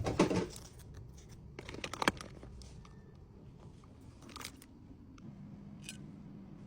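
Small items and plastic packaging handled by hand: a few brief rustles and light clicks, a small cluster about two seconds in and single ones later.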